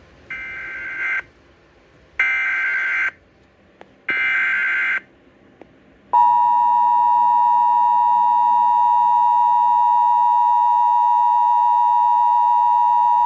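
Emergency Alert System alert: three one-second bursts of SAME header data, buzzing digital tones, each followed by about a second of silence. About six seconds in, the steady two-tone attention signal starts, loud and unbroken, announcing a severe thunderstorm warning.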